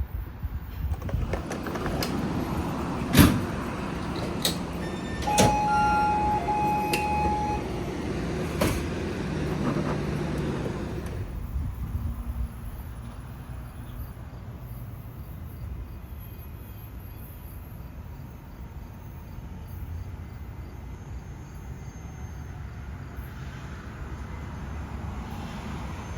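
NJ Transit train running past: a rumble with several sharp clanks and a brief high tone for about the first ten seconds, then dropping to a quieter steady rumble.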